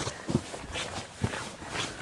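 Footsteps of a hiker walking on a forest trail, about two steps a second.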